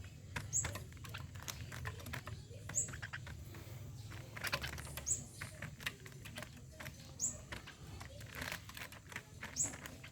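A bird repeating a short, high call about every two seconds, over scattered clicks and rustling.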